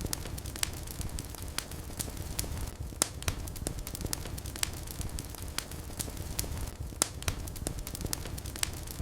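Wood fire burning in a fireplace: a steady low rumble of flames with irregular sharp crackles and pops, several a second, a few louder snaps among them.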